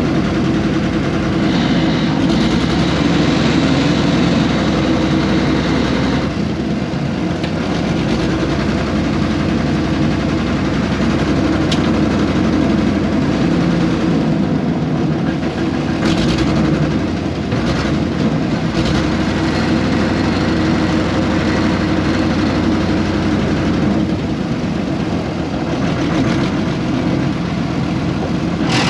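A 1970s excavator's air-cooled Deutz diesel engine running steadily, with a few sharp metallic clanks.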